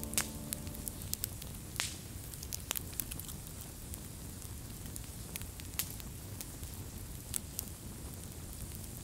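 Ambient crackle: a low steady rumble and hiss with scattered sharp pops and snaps, a few each second, the loudest about two seconds in.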